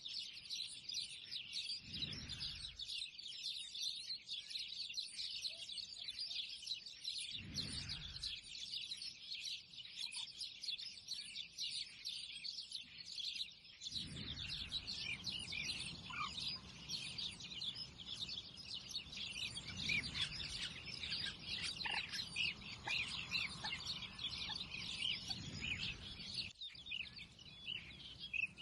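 Many small birds chirping together in a dense, unbroken chorus of short high chirps, with a few brief low rumbles underneath.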